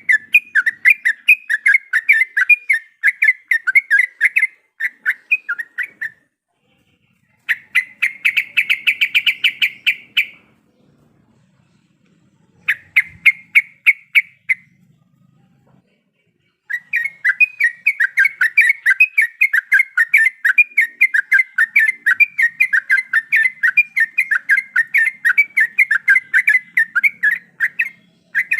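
Yellow-vented bulbul (trucukan) singing in fast rolling runs of short, sharp repeated notes, several a second, in four spells broken by pauses of one to two seconds. The second spell is briefly higher and faster, and the last runs unbroken for about eleven seconds.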